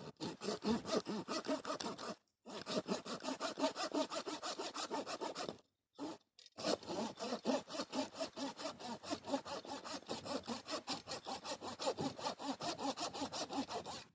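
Hand saw cutting through a piece of firewood with quick, even back-and-forth strokes, in three runs broken by two short pauses.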